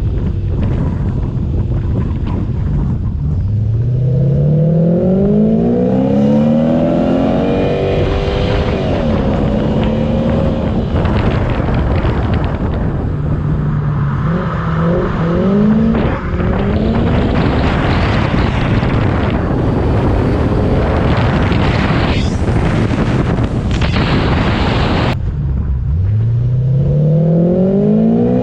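Supercharged V8 engine of a Toyota Soarer drift car revving hard, its pitch climbing steeply under throttle about three times, at the start, near the middle and near the end, then falling away. A dense rushing noise runs underneath and is loudest in the second half.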